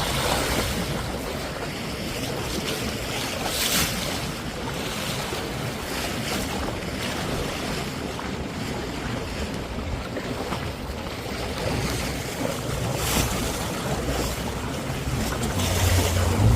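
Wind buffeting the microphone over the wash of the sea, with a few brief sharp swooshes. A low hum comes in near the end.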